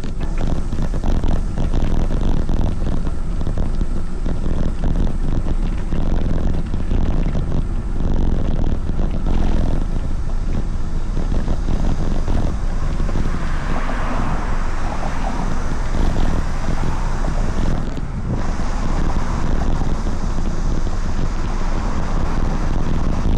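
Wind buffeting the microphone of a moving camera during a ride, a steady loud rumble with road noise; a hissier rushing sound swells in about halfway through.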